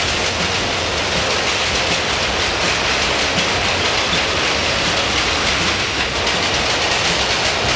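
Santa Fe diesel locomotives passing at speed: a loud, steady rush of engine and wheel-on-rail noise.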